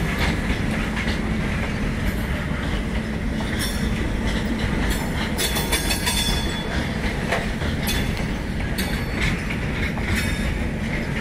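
Freight wagons loaded with steel coils rolling past on the rails: a steady rumble with wheels clacking over the rail joints, and a brief high-pitched wheel squeal about halfway through.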